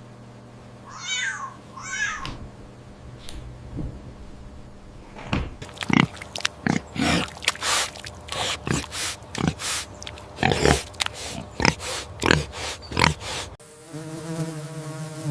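Cat and kitten meowing: two drawn-out mews about a second in, then a quick run of short mews. Near the end this gives way abruptly to the steady buzz of a flying insect.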